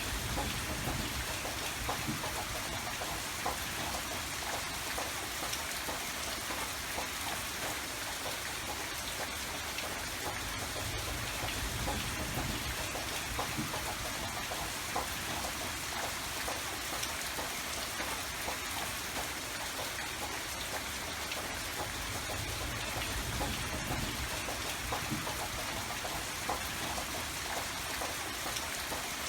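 Steady rain falling, with many distinct drops pattering on a surface.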